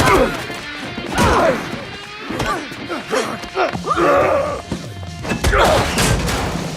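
Film fight sound effects over music: a series of heavy hits and crashes, several sharp impacts a second or more apart.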